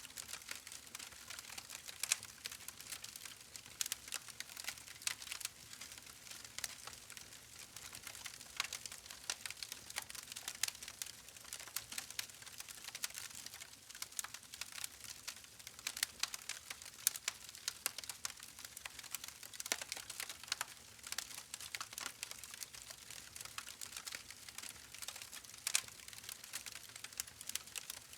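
Campfire crackling steadily, with irregular sharp pops and snaps over a soft hiss of burning wood.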